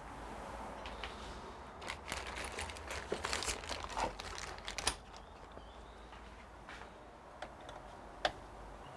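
Crinkling and rustling as cooler hardware is handled, thickest from about two to five seconds in, followed by a few separate sharp small clicks.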